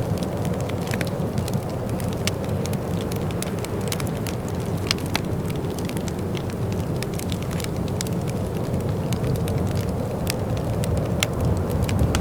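Wood fire burning in a fireplace, with many sharp irregular crackles and pops over a steady low rumble of the flames.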